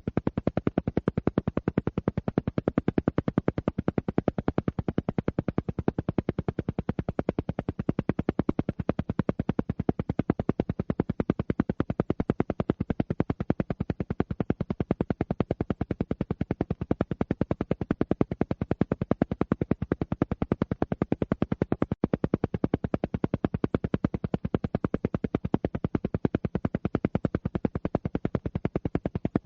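Alpha-wave brainwave-entrainment track: a rapid, evenly spaced pulse of sound repeating without a break, strongest in the low range, an isochronic-style beat meant to draw the listener into a relaxed alpha state.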